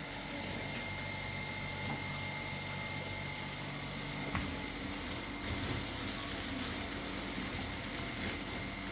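A motor or engine running steadily: a low hum with a constant high-pitched whine over it.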